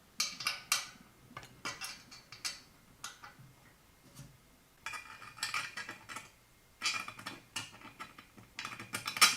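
Metal parts of an extendable microwave oven rack clinking and clanking together as they are handled and fitted, in several short bursts, the loudest near the end.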